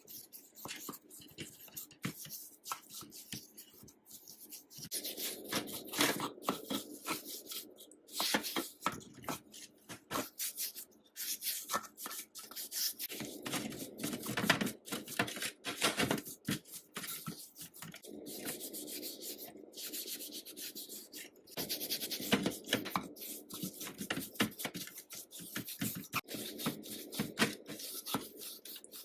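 Hand rubbing and scraping on sewing-machine parts during restoration work, in uneven stretches, with many small clicks and knocks of handled parts and tools.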